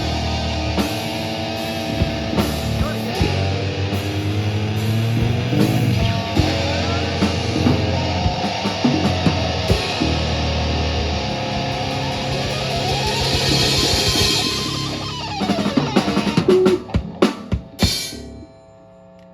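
Live rock band playing loud, with drum kit, guitar and bass. A held note slides up, then back down, and the song ends in a run of loud drum hits before dropping to quiet near the end.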